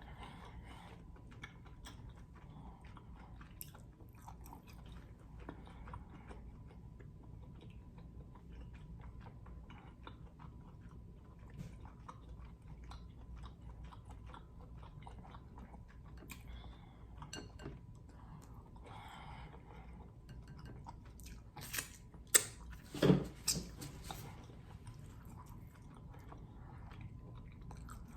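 Close-up chewing and biting of king crab in garlic butter sauce, with many small mouth clicks throughout. A few loud, sharp cracks or knocks come close together about three quarters of the way in.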